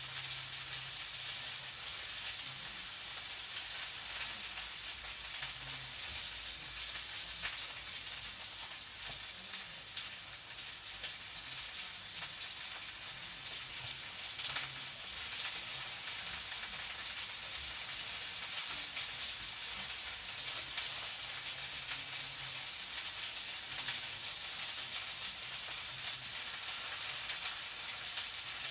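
Food frying in a pan: a steady sizzle with small crackles and pops.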